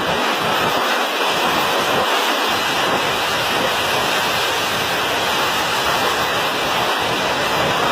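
Steady loud rushing noise with no distinct impacts or voices.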